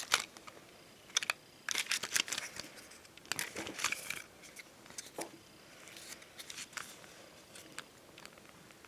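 Bonbon drop and ohajiki stickers being handled up close: irregular crinkly rustles, as if peeling from a sticker sheet, broken by sharp light clicks and taps.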